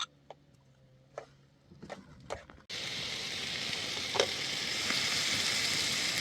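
Food frying in a hot pan: a steady sizzle that starts abruptly a little under three seconds in, with one sharp crackle about a second later. Before it, only a few scattered small clicks.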